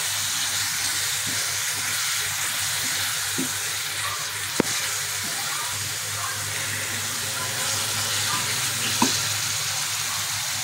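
Ground onion, garlic and tomato masala sizzling steadily in ghee in a frying pan as a silicone spatula stirs it, at the bhuna stage where the ghee has separated out. Two sharp clicks come through, about four and a half seconds in and again near nine seconds.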